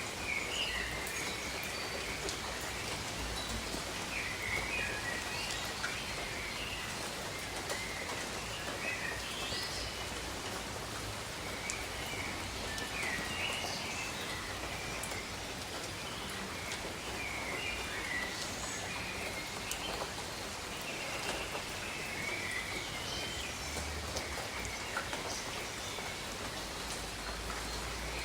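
Steady rain falling on tropical rainforest, with birds calling in short chirps again and again throughout.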